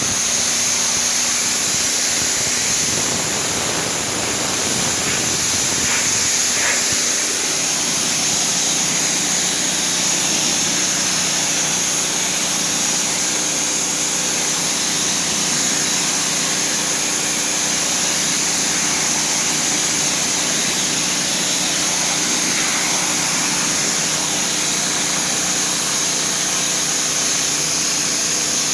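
Westinghouse 3200 psi gasoline pressure washer running, its small engine holding a steady drone under the loud hiss of the high-pressure water jet.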